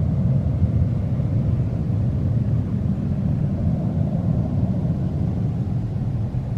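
Airliner's engines rumbling steadily as it climbs away after takeoff, slowly fading.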